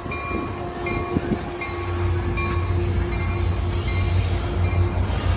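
Altamont Corridor Express commuter train pulling out. A steady low rumble builds gradually, with a bell dinging about once a second.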